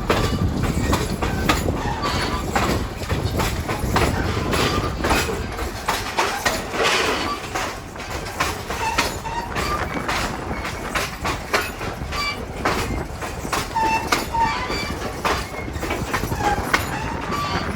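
Passenger train running, heard from aboard a railroad car: wheels clicking and rattling over the rails, with short wheel squeals now and then. The low rumble eases after about six seconds.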